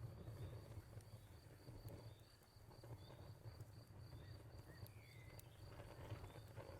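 Faint fireplace ambience: a low rumble with a few soft crackle clicks, under a cricket-like high chirp pulsing steadily about four times a second.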